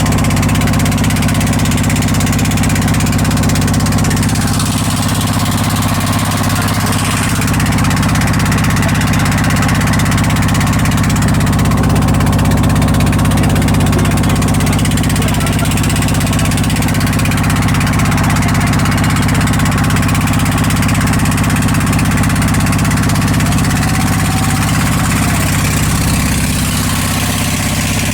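Boat engine running steadily at a constant speed, with a low, even hum and a haze of water and wind noise over it.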